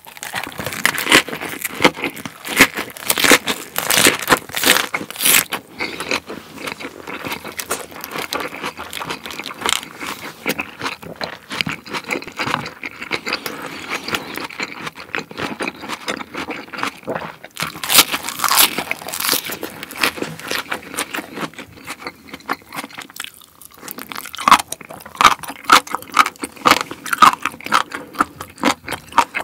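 Close-miked crisp crunching and chewing of a raw napa cabbage leaf wrap, bite after bite. The crunching is loudest in the first few seconds, again about two-thirds through, and near the end.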